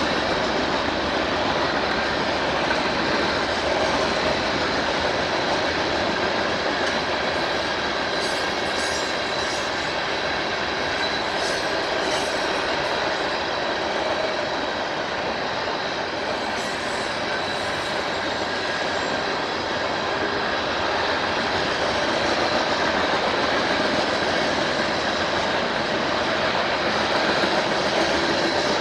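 A train rolling past: steady noise of steel wheels on the rails, with a faint high steady whine over it and some light clicking in the middle.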